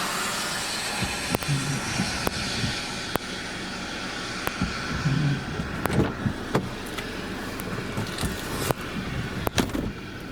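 Vehicle driving, with a steady rush of road noise heard from inside the cabin and sharp ticks about once a second.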